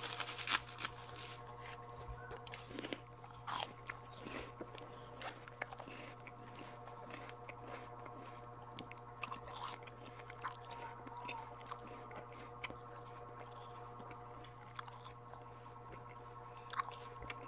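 Close-up mouth sounds of someone biting and chewing santol (cotton fruit): irregular wet clicks and crunches, busiest in the first few seconds. A steady low hum runs underneath.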